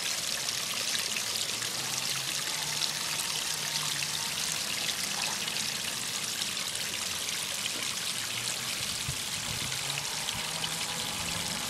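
Water splashing and trickling steadily down the rock tiers of a recirculating pondless waterfall, just turned on and still working its way down the cascade.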